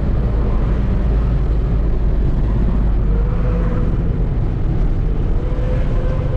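Truck engine running steadily under way, a loud low rumble, with a thin whine that climbs slightly in pitch over the second half.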